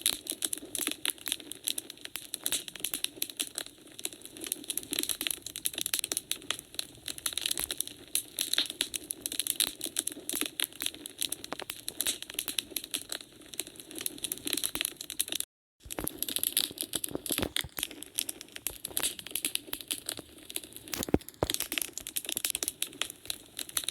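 Wood fire crackling in a fireplace: dense, irregular pops and snaps over a steady hiss. All sound cuts out for a split second about two-thirds of the way through.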